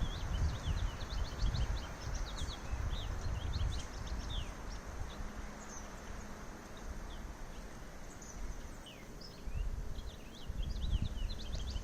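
Small birds chirping: many short, quick high calls scattered throughout, over wind rumbling on the microphone.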